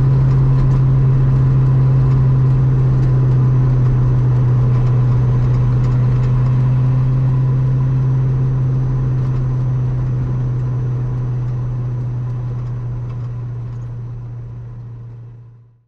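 Ultima RS's V8 engine running at a steady, constant pitch, fading out to silence near the end.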